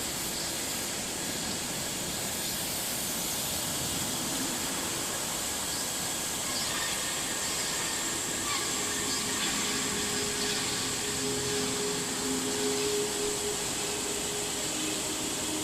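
Steady rush of falling water from a waterfall or mountain stream.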